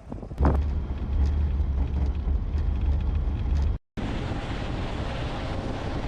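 Wind buffeting the microphone with a heavy low rumble and a rushing noise; just before four seconds in, the sound cuts off abruptly and is followed by a steady, even rushing noise.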